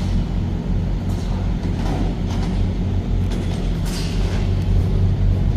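A truck running with a steady low engine drone and road rumble.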